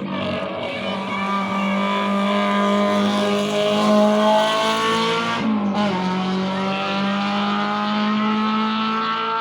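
Rally car engine pulling hard under acceleration, its pitch climbing steadily. A gear change a little past halfway briefly drops the pitch, then it climbs again.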